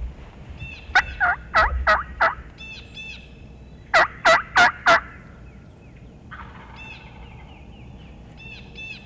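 Loud wild-turkey yelping: a run of about five yelps, then a pause, then four more, the sort of calling used to pull in a gobbler. Faint songbird chirps sound in between.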